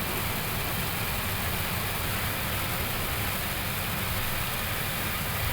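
Steady flight-deck noise of an Airbus A321neo taxiing: a low rumble from its idling engines under a constant hiss of air-conditioning airflow.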